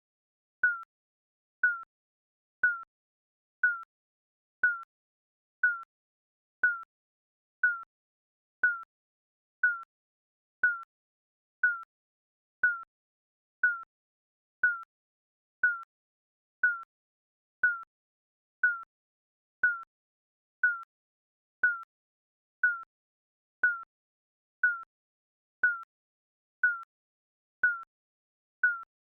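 Digital countdown-timer beep sounding once a second: a short electronic blip that dips slightly in pitch, each the same, with silence between.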